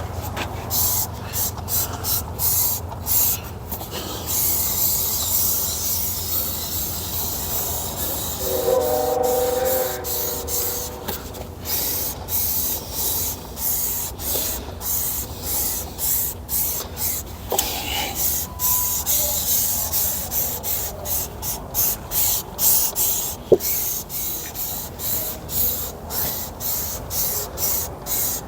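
Aerosol engine degreaser spraying in many short hissing bursts that stop and start rapidly, over a low steady hum. A brief tone sounds about nine seconds in.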